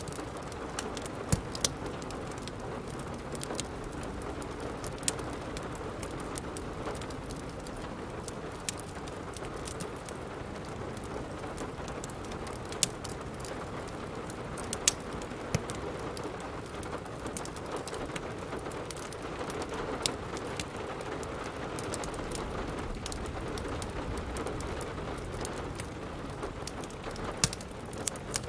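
Steady rain falling, with irregular sharp pops and crackles from a wood fire.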